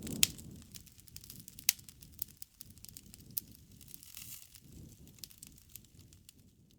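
Campfire burning: wood crackling and popping in irregular sharp snaps over a soft low rumble of the flames, with the loudest pops near the start and about a second and a half later.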